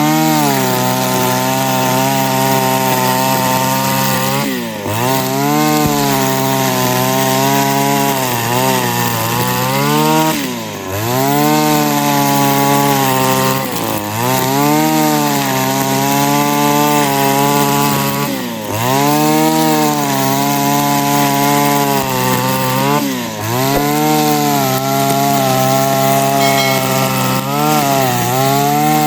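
Two-stroke engine of an HUS 545DL backpack brush cutter running at high revs. The revs briefly dip and climb back about every four to five seconds.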